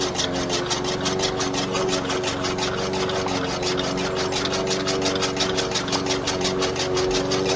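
Small motor of a home-made miniature tractor running steadily, with a constant hum and a fast, even ticking.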